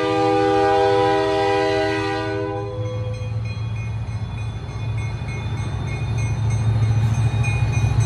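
Diesel freight locomotive's air horn sounding a chord of several tones, which cuts off about two and a half seconds in. Then the locomotives' diesel engines rumble steadily, growing louder near the end.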